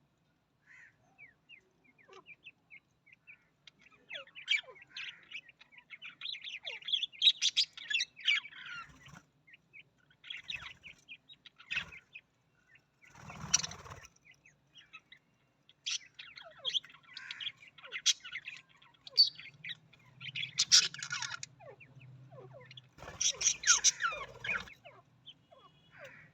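Budgerigars chirping and chattering in quick clusters of short high notes, with louder, harsher bursts of calling about halfway through and again near the end.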